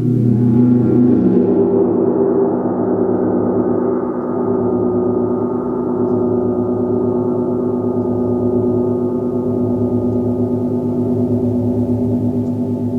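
A gong ringing in a long, sustained wash of many overlapping tones. It swells in the first second or two, then the bright upper shimmer fades and a full, steady hum with a slight wavering pulse remains.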